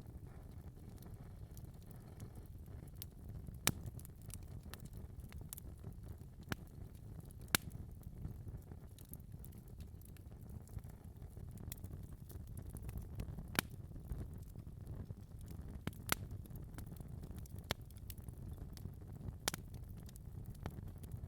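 Wood fire crackling in a fireplace: a low steady rumble of burning with irregular sharp pops and snaps, a few of them standing out louder.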